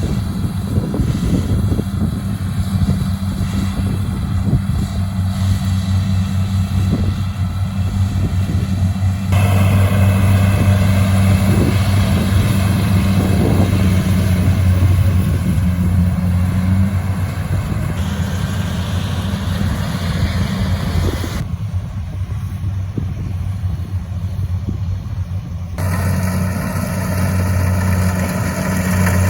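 An engine running steadily and close, a constant low hum, with the sound changing abruptly a few times.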